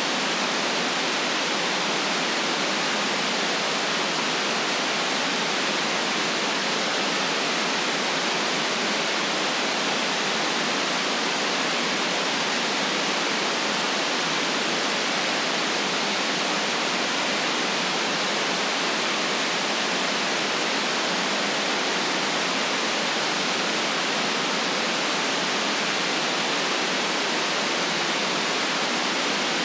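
Steady white noise played for relaxation: an even, unchanging hiss with little deep bass.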